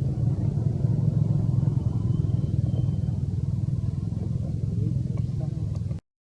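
A motor engine running steadily as a continuous low drone, cutting off abruptly near the end.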